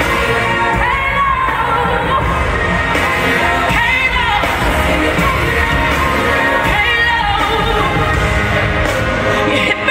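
Live pop music: a singer's voice over band backing, the sung notes bending up and down in long runs.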